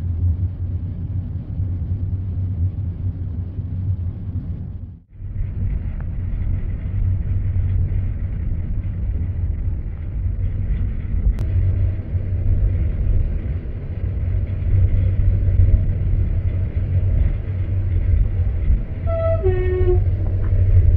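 Steady low rumble of a moving passenger train heard from inside the carriage. It drops out for a moment about five seconds in, and a short series of brief pitched tones sounds near the end.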